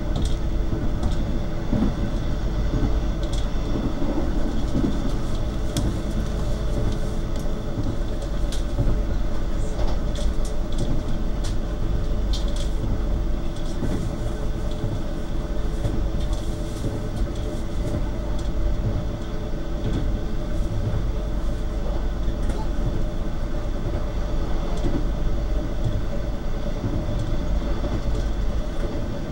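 Cabin noise inside a passenger car of the Argo Bromo Anggrek express train running at speed: a steady low rumble of the wheels on the rails under a faint steady hum, with scattered light clicks and knocks.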